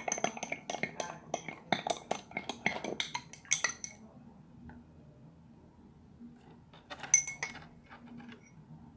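A spoon clinking and scraping against a bowl in quick, repeated strokes while stirring a salt-and-soap slime mixture, stopping about four seconds in; a short flurry of clinks follows near the end.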